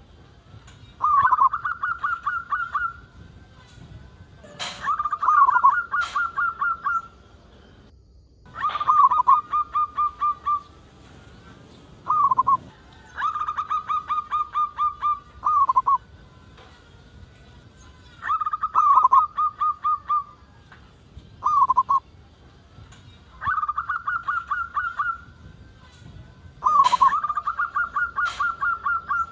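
Zebra dove (perkutut) cooing: phrases repeated every few seconds, each a short opening note and then a quick run of clipped, evenly spaced coos. A couple of sharp clicks fall between phrases.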